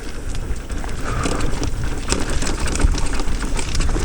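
Mountain e-bike riding down a dirt trail: wind buffeting the microphone, tyres rolling over dirt and the bike rattling, with many sharp clicks and knocks.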